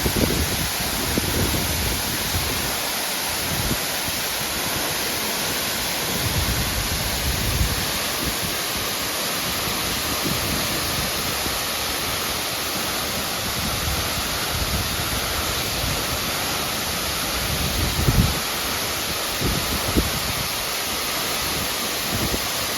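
Yasu no Taki waterfall falling: a steady, unbroken rush of water. A few brief low thumps, about a second, six seconds and eighteen seconds in, break through the roar.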